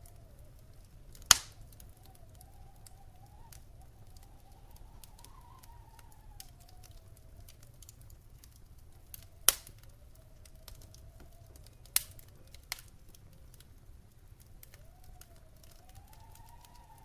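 Wood fire crackling in a fireplace: a run of small crackles with a few sharp pops, the loudest about a second in and two more in the second half. Under it is a faint wavering whistle that slowly rises and falls in pitch.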